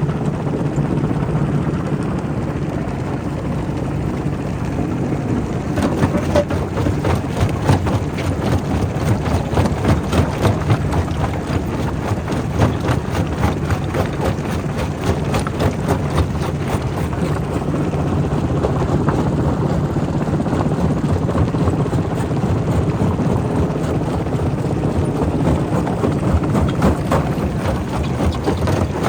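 Quarry primary rock crusher running with a steady heavy hum. From about six seconds in, dense irregular knocks and cracks of rock break out as stone is crushed.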